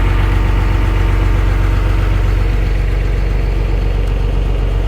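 Steady engine drone: a loud, even low hum holding one pitch.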